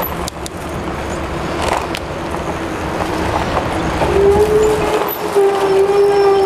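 Street noise and wind rush during a fast city bicycle ride through traffic. About three seconds in, a steady motor hum from a nearby vehicle joins and holds.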